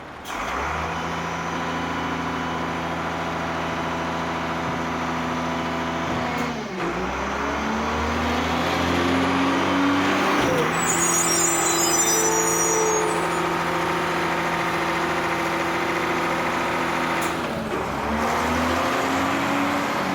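Large truck engine running steadily, its pitch dropping and climbing again a few times as the revs change, with a brief hiss partway through.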